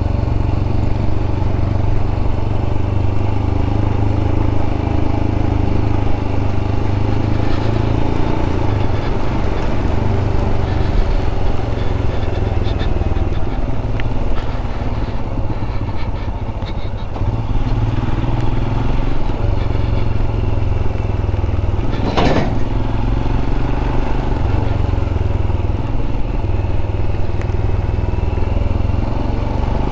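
Royal Enfield 411 cc single-cylinder motorcycle engine running in a low gear on a steep descent, its note slowly rising and falling. A single sharp knock stands out about 22 seconds in.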